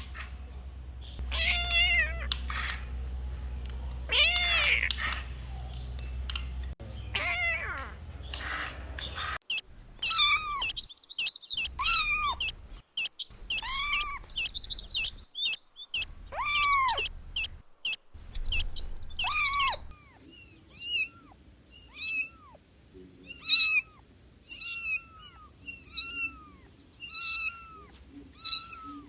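Kittens meowing over and over: short, high-pitched mews, some drawn out, with abrupt cuts between clips. The last third is a run of short mews about one a second.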